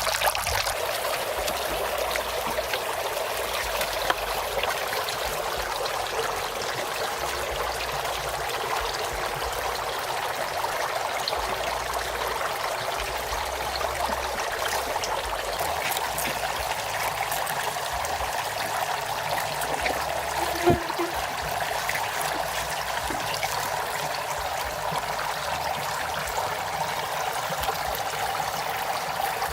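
Water running and trickling steadily, with one short knock about two-thirds of the way through.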